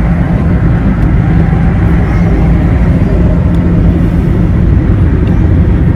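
Automatic car wash machinery heard from inside the car's cabin: a loud, steady rush and rumble with a constant low hum.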